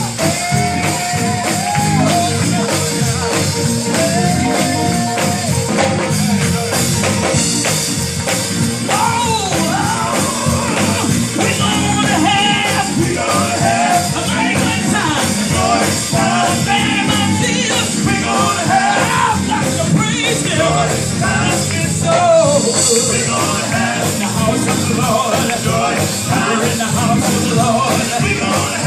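Live gospel church band playing an upbeat instrumental break with a steady beat, a lead line weaving over the rhythm section.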